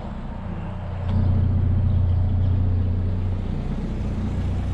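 GMC Sonoma pickup truck driving, with a steady low engine hum and road noise. The engine gets louder about a second in as the truck picks up speed.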